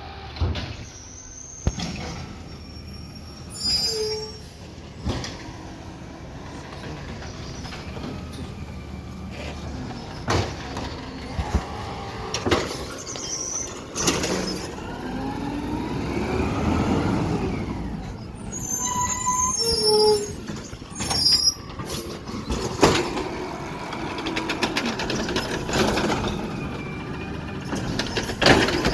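Garbage truck at work: running machinery broken by sharp clanks and knocks, a few short high squeals, and a whine that rises and falls midway.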